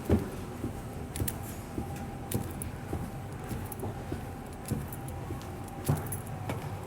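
A steady low hum with irregular short thumps and light rattles every second or so, the loudest just after the start.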